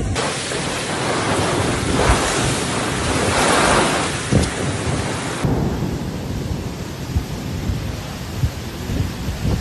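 Heavy rain pouring down in a dense hiss that swells louder about two to four seconds in. About five seconds in it cuts abruptly to a duller rush, with wind rumbling on the microphone.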